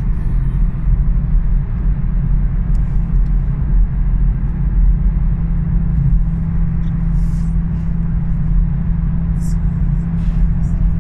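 Toyota GR Supra's 3.0-litre six-cylinder engine running at a steady, unchanging speed with road noise, as when cruising at constant motorway speed; the engine is not revving.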